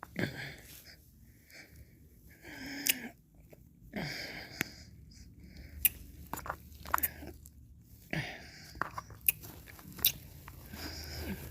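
Close-miked mouth sounds of eating ice cream: wet licking and breathy slurps every second or two, with many sharp lip smacks and tongue clicks between them.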